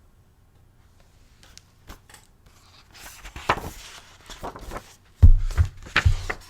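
Handling of a book: faint rustles and clicks as a page is turned, then two loud dull thumps close together near the end.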